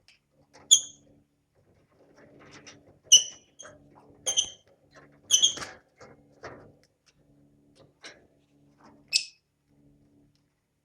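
Lovebirds giving short, sharp chirps, about five of them spread across the stretch, with softer clicking and rustling between the calls.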